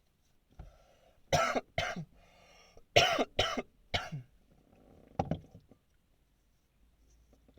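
A man coughing, about six harsh coughs in quick pairs over some four seconds, with breathy throat clearing between them.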